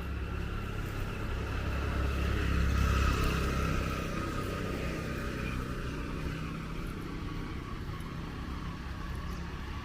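A motor vehicle passing on a wet road: engine rumble and tyre hiss rise to their loudest about three seconds in, then fade into a steady traffic hum.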